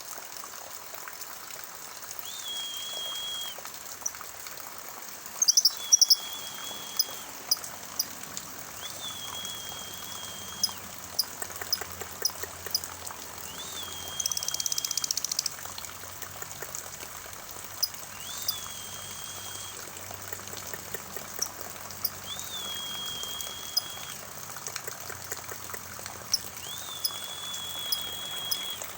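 Rainwater pouring and trickling steadily. Over it a bird whistles one note seven times, roughly every four seconds, each rising briefly and then held for about a second, with scattered sharp chirps and ticks and a brief rapid rattle about halfway through.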